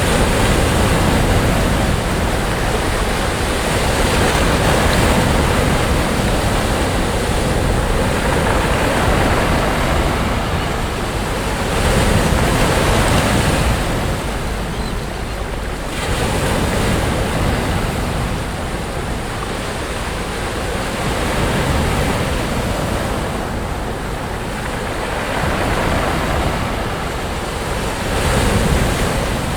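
Sea waves breaking and washing up a beach: a continuous surf hiss that swells and eases, with louder surges about twelve seconds in and again near the end.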